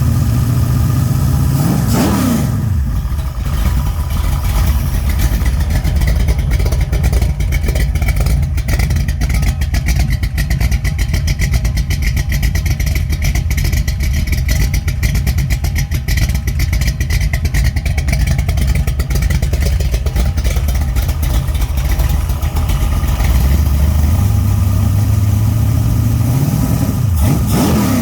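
408 cubic inch stroker small-block Mopar V8 (a 360 bored .040 over with a Scat rotating assembly and a Comp Xtreme Energy hydraulic roller cam) running on an engine stand during break-in. It is held at a steady raised speed through the middle, with a rev and drop about two seconds in and again near the end. The Comp adjustable rockers give some valvetrain clatter that is a little on the noisy side.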